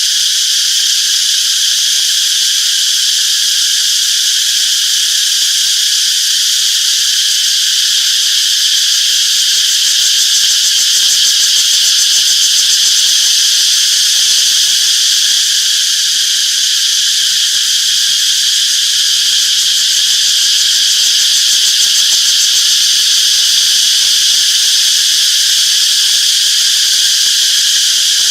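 Chorus of cicadas buzzing loudly and continuously, a dense high-pitched drone that swells slightly about a third of the way in.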